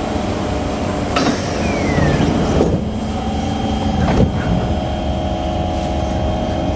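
Kawasaki C151 metro train running, heard from inside the car, with a steady motor tone coming in about three seconds in. Three sharp knocks sound about a second and a half apart, typical of severely flat-spotted wheels striking the rail.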